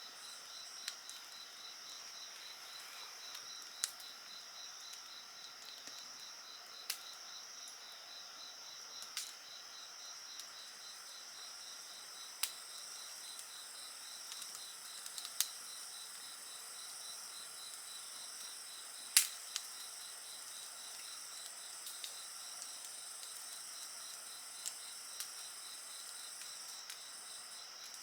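Wood fire crackling, with scattered sharp pops, the loudest a little past halfway, over a steady chorus of trilling insects such as crickets.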